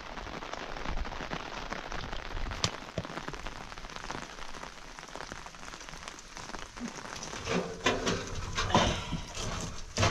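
Steady rain falling, with a few sharp knocks and some louder bursts of noise in the last few seconds.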